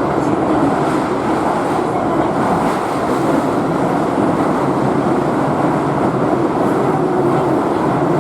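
Keihan electric commuter train running, heard from inside the car: a steady, even rumble and rush of wheels on rail.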